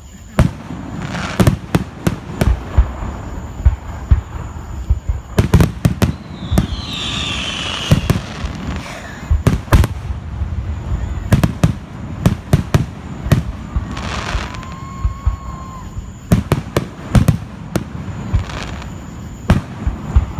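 Fireworks display: a rapid, irregular series of sharp bangs and booming bursts. Rumbling echoes hang between them, with a whistling rocket about a third of the way in.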